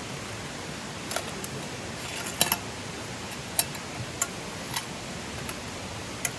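Light clinks and taps of small hard items being handled, about eight at uneven intervals, the loudest about two and a half seconds in, over a steady rushing hiss.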